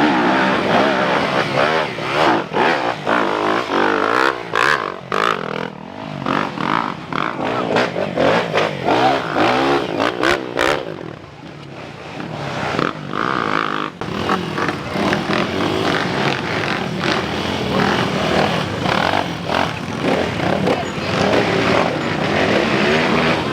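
Motocross motorcycle engines revving hard on a steep uphill climb, their pitch rising and falling repeatedly, easing off for a moment about halfway through before building again.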